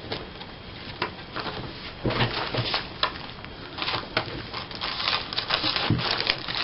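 Paper rustling and crinkling as cut-out magazine pictures and scrapbook paper are handled and shuffled, with scattered soft taps and clicks that get busier about two seconds in.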